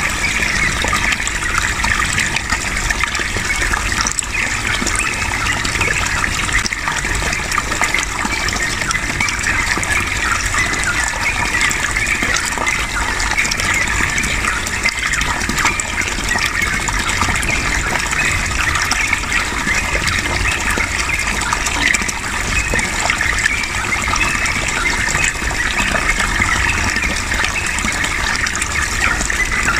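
Steady rush of flowing water, with the chattering song of a yellow-vented bulbul (trucukan) mixed in.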